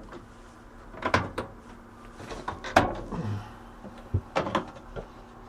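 Several sharp plastic clicks and knocks as the RV exhaust fan's cover and insect screen are fitted back into place.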